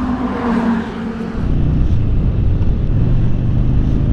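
Road vehicle engine running, with a steady low rumble that gets louder about a second and a half in.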